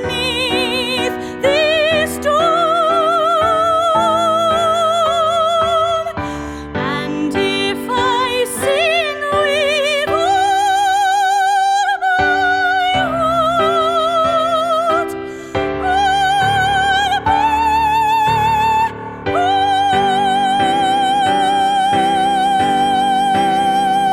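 A woman singing in an operatic style with wide vibrato over instrumental accompaniment, with a long held high note for the last few seconds.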